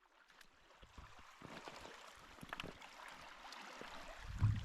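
Faint water lapping on a stony lakeshore, with scattered small clicks of stones and a low thump near the end.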